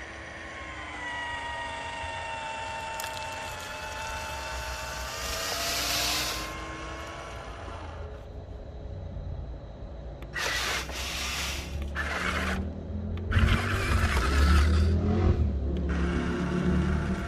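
Radio-controlled model wheel loader and dump truck working gravel. An electric motor whines for the first several seconds, its pitch falling slowly. From about ten seconds in, several bursts of gravel scraping and pouring come over a low rumble.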